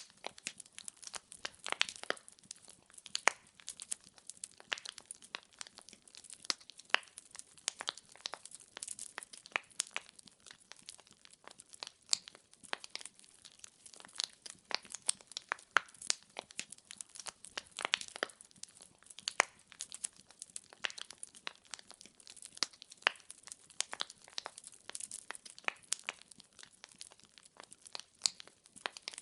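Wood fire crackling: burning logs giving off many sharp, irregular pops and snaps over a soft hiss.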